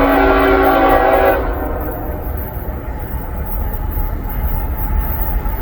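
Freight locomotive's air horn sounding a steady multi-note chord that cuts off about a second and a half in, followed by the low rumble of the approaching train.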